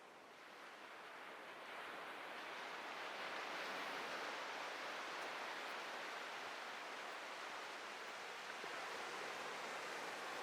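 Ocean surf: a steady wash of breaking waves that swells over the first few seconds and then holds.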